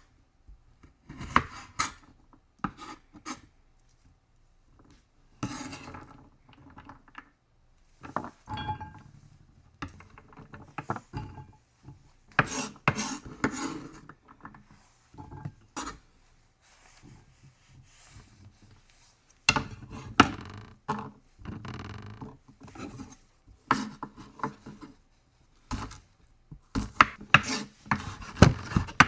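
Kitchenware handled by hand: dishes, pots and utensils clattering and knocking at irregular intervals, with scraping and rubbing between the knocks.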